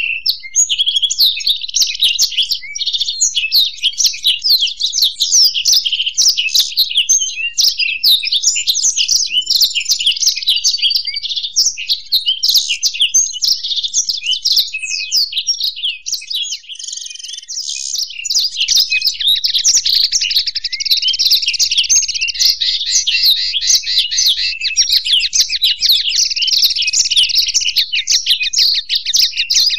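Black-throated canary (blackthroat) and European goldfinch singing together, a continuous stream of fast high twittering phrases. It eases off briefly about halfway, then resumes with rapid trills.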